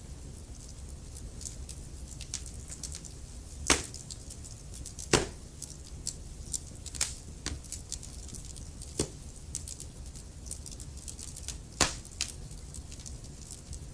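Wood fire crackling: scattered sharp pops and snaps of burning logs over a low steady rumble of the flames, with three louder pops about four, five and twelve seconds in.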